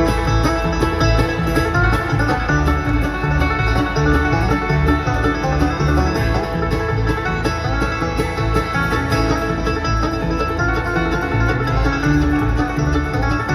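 Bluegrass band playing live: banjo and acoustic guitar picking over a pulsing bass, with no singing, in the instrumental lead-in before the vocals.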